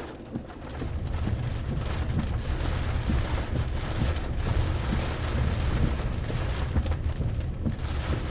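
Heavy rain pouring down in a storm, a steady hiss full of small drop impacts, with gusts of wind buffeting the microphone as a low rumble. It gets louder about a second in.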